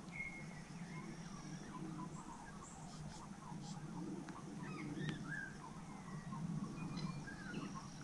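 Scattered short bird chirps and brief whistles over a low steady background rumble, with a few faint sharp clicks.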